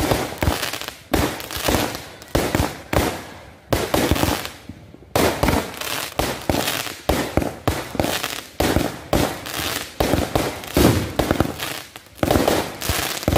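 Aerial fireworks bursting in a rapid string of sharp bangs, about two a second, with a lull of a second or so around four seconds in.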